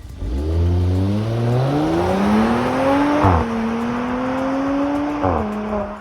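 Mercedes C450 AMG's twin-turbo 3.0-litre V6 at full-throttle acceleration, its pitch climbing steadily, then dropping sharply at an upshift about three seconds in. It climbs again more slowly and drops at a second upshift near the end.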